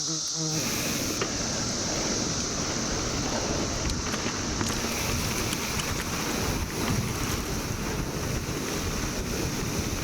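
Wind buffeting the microphone and rumble from riding a mountain bike on the trail, starting about half a second in. Under it runs a steady high drone from a chorus of 17-year periodical cicadas.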